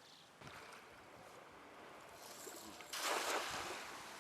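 Faint water sounds, lapping and trickling, with one louder splash about three seconds in.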